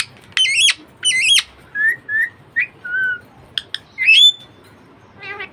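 Budgerigar chattering: a string of short warbled whistles, chirps and clicks that waver up and down in pitch.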